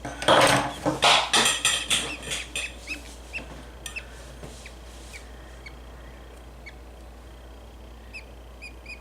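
Budgie chick screaming in a quick run of harsh bursts that fade over about two and a half seconds, protesting being held for its splayed legs to be taped. Other budgies keep up short, high chirps afterwards.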